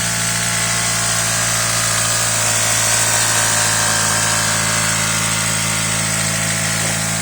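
Car engine idling steadily with a ticking that comes from the intake side, the ticking noise the owner is trying to track down.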